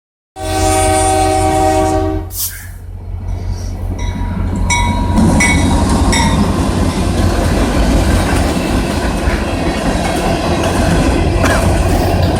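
CN train sounding its air horn, a chord of several steady tones for about two seconds, then passing through at speed: a steady loud rumble of wheels on rail with clickety-clack, and a few short high ringing tones about four to six seconds in.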